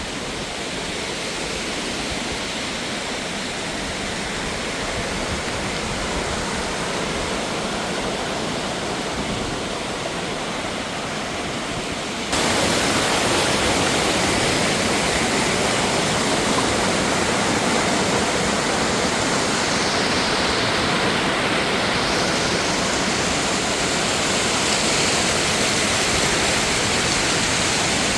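Mountain waterfall and stream water rushing steadily; about twelve seconds in it jumps suddenly louder and brighter and stays there.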